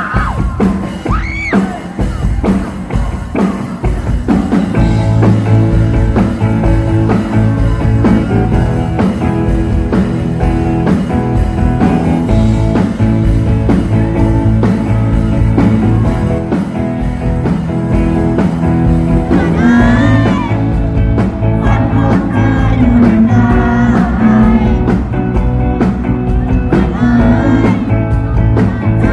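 A rock band playing live with guitars and a singer. The full band comes in a few seconds in, and the sung vocal line stands out from about twenty seconds in.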